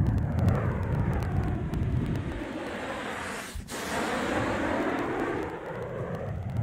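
A passing vehicle: a steady rushing noise whose tone sweeps downward, meets about four seconds in as it passes closest, then sweeps back up.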